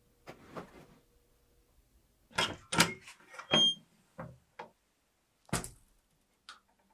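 A series of knocks and clunks, loudest in a cluster about halfway through, with a brief high ring among them and one sharp thump near the end.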